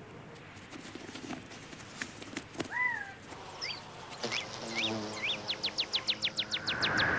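Bird calls: a few separate rising-and-falling chirps, then a rapid trill of sharp descending notes, about nine a second, near the end.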